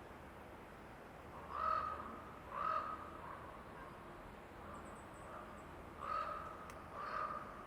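A crow cawing four times, in two pairs of calls about a second apart with a pause of about three seconds between the pairs. A faint high chirping comes midway, over a steady quiet forest background.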